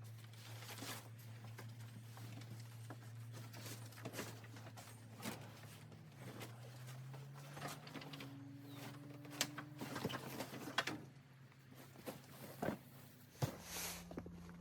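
Scattered knocks, clicks and scuffs of someone moving about and handling things, with a few sharper knocks late on, over a steady low hum that shifts up in pitch twice.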